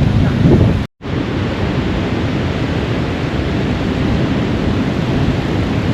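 Steady wind rushing over the microphone on a very breezy day, a loud even hiss and rumble. The sound cuts out completely for a moment about a second in, then the wind noise carries on steadily.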